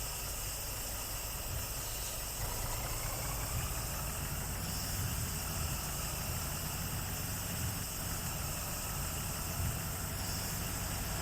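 Truck engine running steadily, a continuous low rumble with road hiss and a faint slowly rising whine.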